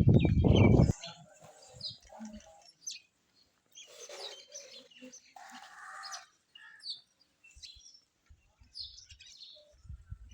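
A loud low rumble for about the first second, then birds chirping now and then: short, scattered high calls.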